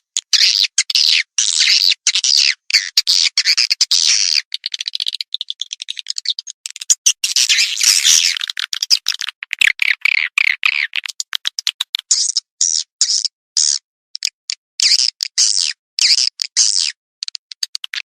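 Recorded swiftlet calls: dense, rapid trains of clicking, buzzy chirps and twitters, broken by short abrupt silences. This is a swiftlet-farming lure call, played to draw swiftlets into a nesting house.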